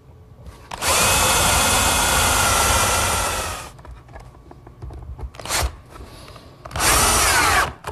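Electric drill boring screw holes in wood: one run of about three seconds, a brief burst, then a second run of about a second near the end.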